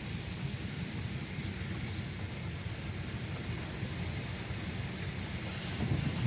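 Strong, gusty thunderstorm wind with a steady low rumble, buffeting the microphone. A louder low surge comes near the end.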